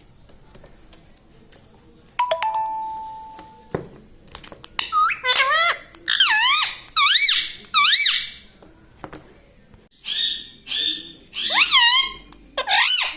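Indian ringneck parakeet giving a run of about nine loud, high calls, each about half a second long and wavering up and down in pitch, starting about five seconds in. A single ringing tone sounds about two seconds in and fades out.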